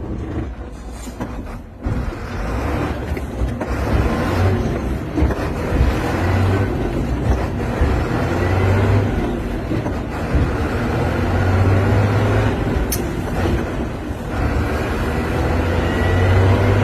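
Sinotruk HOWO truck's diesel engine running while it is driven through the gears with double-clutching, the engine speed rising and falling between shifts.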